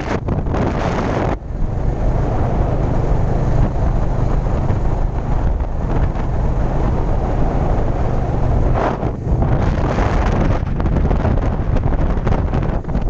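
Motorcycle engine running steadily while riding, with wind buffeting the microphone; stronger gusts in the first second and again about nine seconds in.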